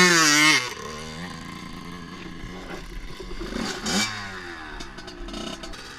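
Dirt bike engine revving hard, then dropping back within the first second to a low, uneven idle, with one more short rev about four seconds in.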